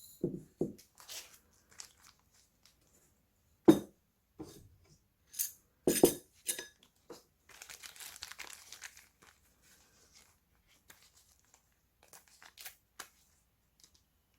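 Handling of instant-noodle packaging and dishes: a series of separate knocks and clinks, the sharpest about a third and halfway in, with a stretch of crinkling and tearing plastic packet about half to two-thirds of the way in.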